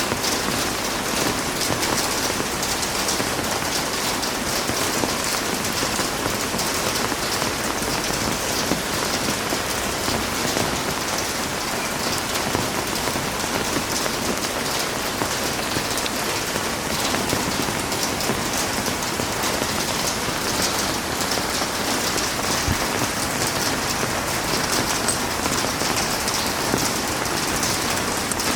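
Heavy rain falling steadily, a dense even hiss with many fine drop ticks on surfaces.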